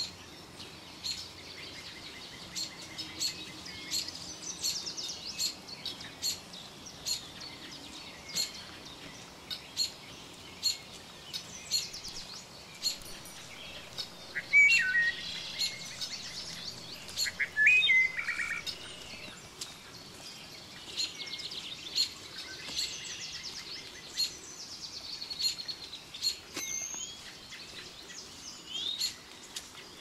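Wild songbirds singing and chirping throughout, with two louder bursts of calls about halfway through.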